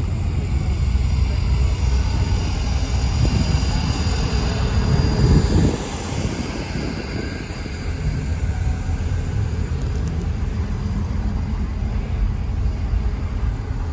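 Diesel truck engine running with a heavy low rumble; it swells louder and cuts back sharply about six seconds in.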